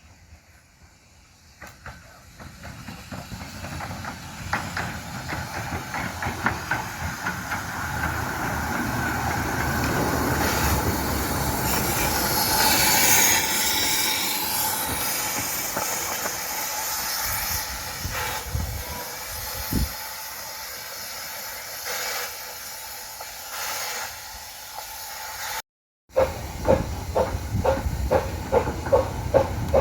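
A 15-inch-gauge Romney, Hythe & Dymchurch Railway train approaching and passing, loudest about halfway through, with a hiss and repeated clicking of wheels over rail joints. After a brief cut near the end, a quick, even beat.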